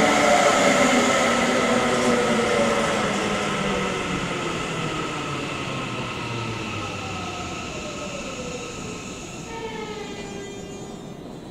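Seibu Shinjuku Line electric commuter train braking to a stop at a platform. Its traction motors whine in several tones that glide steadily down in pitch as it slows, and the running noise fades. Near the end, a brief cluster of stepped electronic tones sounds as it comes to rest.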